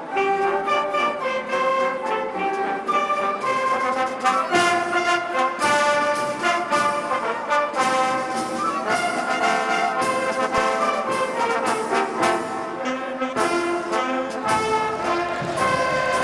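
Brass band music, with trumpets and trombones playing a melody.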